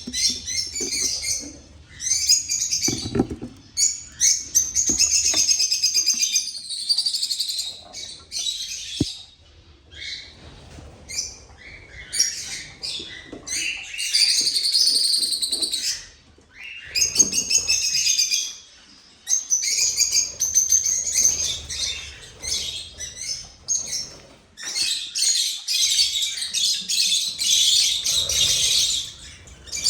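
Small cage birds chirping in quick, overlapping high calls that come in bursts of several seconds with short pauses between.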